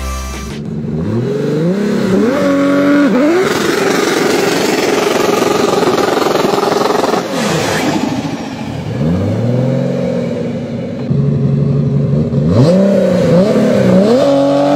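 Toyota Supra Mk4's straight-six revving hard during a burnout, over the hiss of its spinning rear tyres. The pitch climbs in steps and holds high, dips about seven seconds in, then climbs in steps again near the end.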